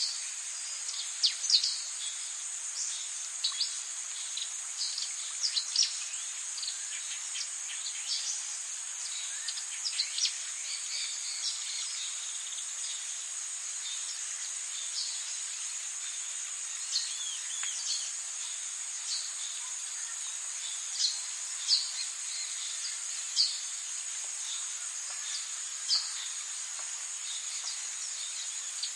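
Tropical forest ambience: a steady, high-pitched insect drone, with frequent short, sharp bird chirps over it.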